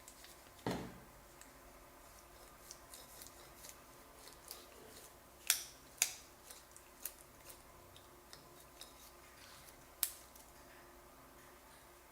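Small parts and tools being handled during a blender repair: a dull knock about a second in, then scattered light clicks and taps, two sharp ones in the middle and another near the end.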